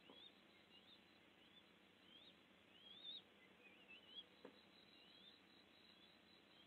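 Faint outdoor ambience in which a bird repeats short, high, upward-slurred chirps over and over. There is a soft click about four and a half seconds in.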